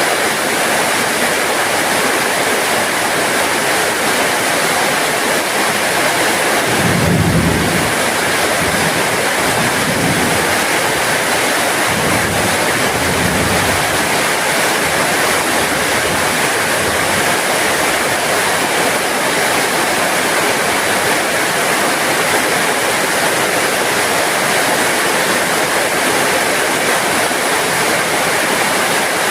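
Heavy rain falling steadily. About seven seconds in, a low rumble comes in under it for several seconds.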